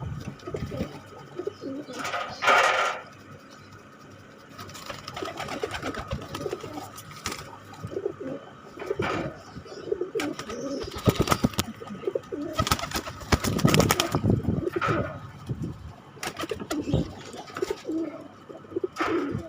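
Domestic pigeons cooing repeatedly, low and throaty, as a male drives a hen (giring, the courtship chase before mating and nesting). Several louder rustling bursts break in, about two and a half seconds in and again around the middle.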